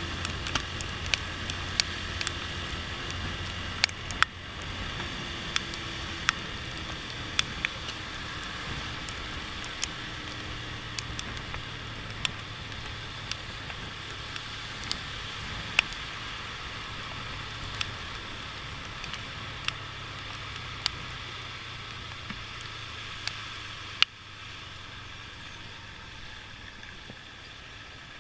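Motorcycle ride in the rain: steady engine, road and wind noise, with sharp, irregular ticks of raindrops hitting near the microphone. The noise drops a step near the end.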